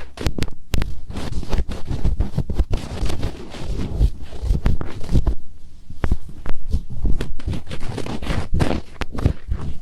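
Fingertips rubbing and scratching right on a microphone for finger ear-cleaning ASMR. It is a close, loud, dense crackling scrape with many sharp clicks and low thumps, easing briefly a few times.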